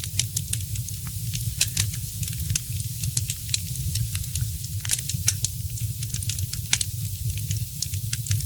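Wood fire crackling: a dense, irregular run of small sharp pops and snaps over a steady low rumble.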